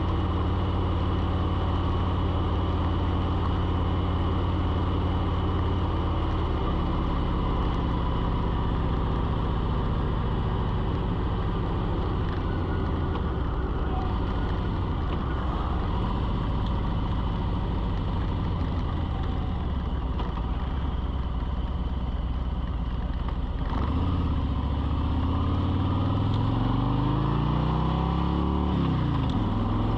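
A motor vehicle's engine running steadily, then climbing in pitch over the last several seconds as it speeds up.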